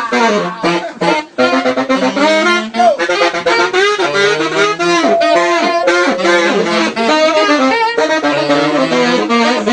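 Saxophone playing fast improvised runs of short notes, with one note held for about a second around the middle.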